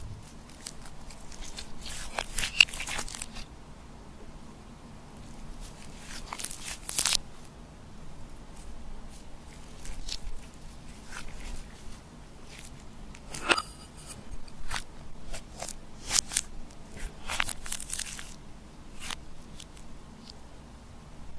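Slime being worked by hand, giving irregular crackles and sticky clicks in short clusters with quieter gaps between.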